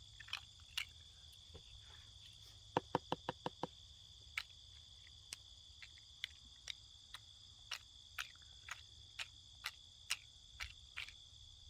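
A steady, high-pitched insect chorus, with scattered sharp clicks over it. About three seconds in comes a quick run of about seven clicks.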